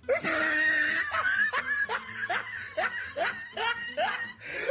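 A woman laughing in a run of short breathy giggles, about three a second, each rising in pitch, after a brief breathy burst at the start.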